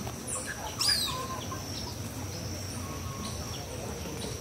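Bird calls: a sharp call sweeping down in pitch about a second in, with a few softer chirps, over a steady high-pitched whine.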